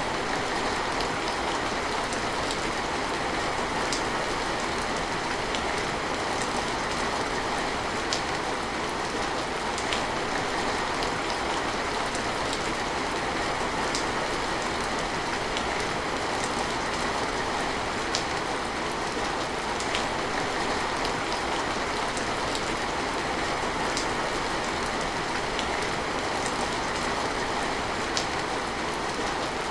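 Steady rain falling, an even hiss with scattered sharper drops striking close by.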